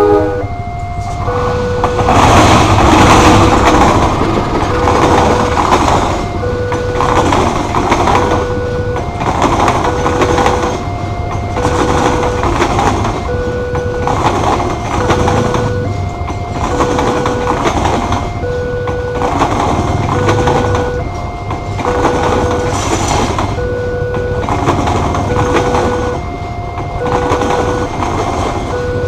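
Level-crossing warning alarm repeating a short electronic tone about once a second, while a passenger train passes with a rhythmic clatter of wheels over the rails, loudest about two to four seconds in.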